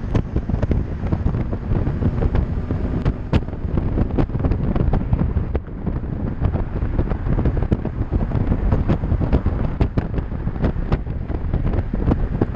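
Wind buffeting the microphone of a camera riding along on a bicycle: a loud, steady low rumble. Irregular sharp clicks and knocks run through it, several in some seconds.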